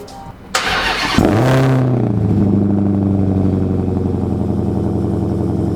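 Dodge Challenger SRT Hellcat Redeye's supercharged 6.2-litre Hemi V8 starting up: a brief crank, the engine catches with a quick rising flare about a second in, then settles into a steady idle.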